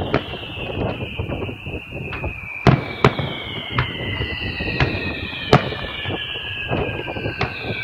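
Fireworks bursting in a string of sharp bangs, the two loudest about two and a half and five and a half seconds in. Underneath runs a high, drawn-out whistling tone that slides slowly down in pitch, with a low rumble of wind on the microphone.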